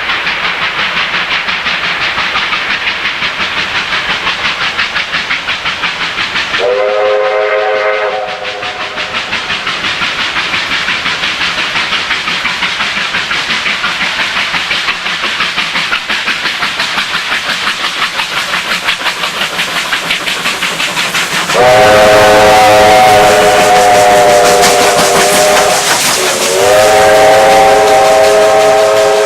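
Double-headed Victorian Railways R-class steam locomotives running at speed with a rapid, steady beat and hiss. A multi-note steam whistle gives a short blast about seven seconds in, then two long blasts near the end.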